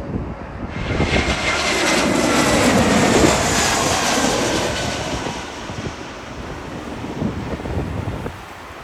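Jet airliner on landing approach passing close overhead: its engine noise comes in suddenly about a second in, peaks and then fades, with a faint whine slowly dropping in pitch as it goes by. Wind gusts buffet the microphone underneath.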